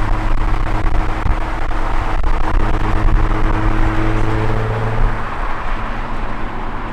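Nissan 350Z's V6 running through a Motordyne exhaust with high-flow cats, cruising with a steady low drone over road and wind noise. The engine note eases off about five seconds in.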